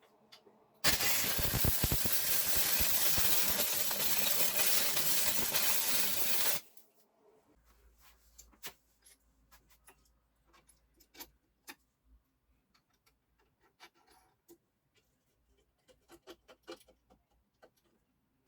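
A loud, steady hiss lasting about six seconds that cuts off suddenly, followed by scattered light clicks and taps.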